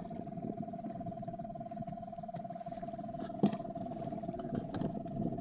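Boat's outboard motor running steadily: a constant whine over a low rumble, with a single knock about three and a half seconds in.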